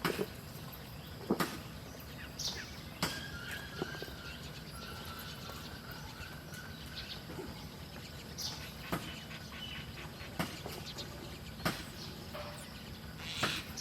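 A few short, high bird chirps and a faint held whistle among scattered sharp clicks and taps, over a steady background hiss.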